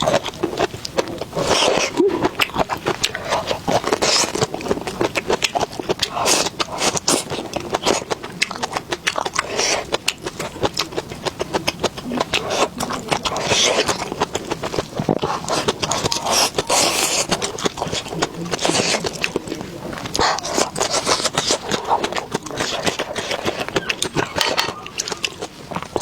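Close-miked eating sounds: chewing and mouth smacks, a dense run of quick clicks and short crunchy bursts.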